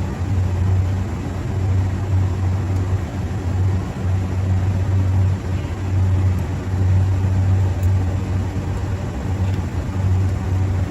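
A machine running with a steady low hum that swells and fades irregularly over a rumbling noise.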